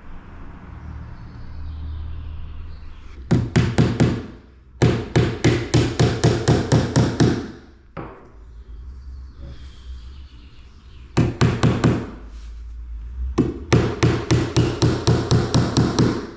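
A hammer tapping nails into the mitred corner of a wooden skirting board, in four runs of quick strikes at about five a second.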